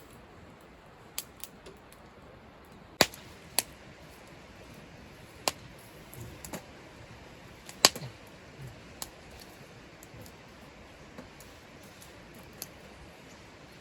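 Scattered sharp clicks and pops at irregular intervals over a faint steady background, the loudest about three seconds in and again near eight seconds.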